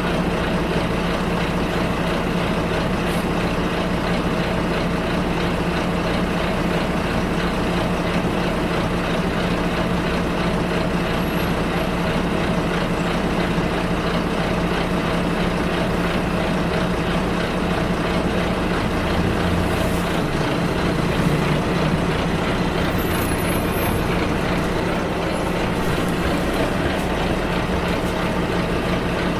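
Bus engine running steadily under road noise, heard from inside the passenger cabin. The engine note shifts about two-thirds of the way through, with a few faint high squeaks soon after.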